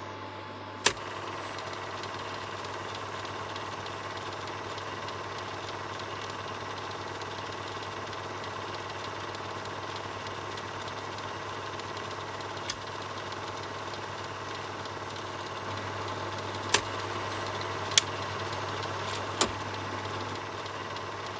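Film projector running with a steady whirring clatter over a low hum. A few sharp clicks stand out: one about a second in and three close together near the end.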